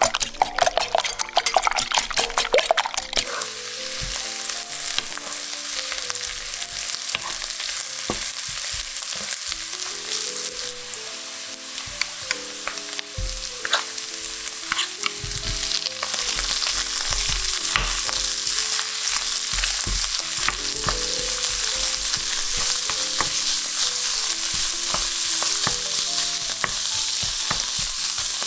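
A wire whisk beats eggs in a glass bowl for the first few seconds, with fast clicking against the glass. Then sliced onions sizzle steadily in hot oil in a frying pan, while canned tuna is tipped in and stirred with a wooden spatula. The sizzle grows a little louder past the middle.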